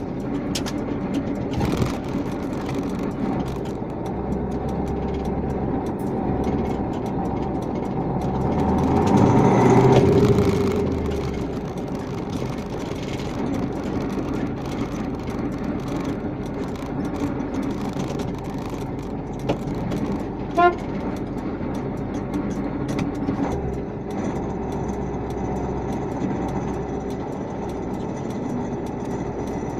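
Vehicle engine running steadily. It swells louder for a few seconds about ten seconds in, and a short horn toot sounds about twenty seconds in.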